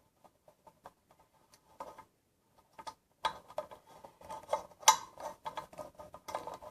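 Metal case of a ceiling fan being opened and handled: scattered clicks at first, then from about three seconds in a busy run of metallic clinks and rattles with a slight ring, the loudest clank a little before the end.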